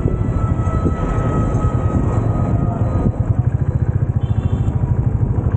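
Motorcycle engine and exhaust running at a steady riding pace, a rhythm of low pulses that grows more even about three seconds in.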